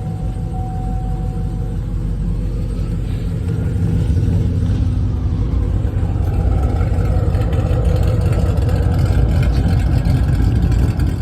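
Camaro SS V8 running just after a cold start through a loud exhaust with no mufflers yet, a steady idle that grows a little louder about four seconds in.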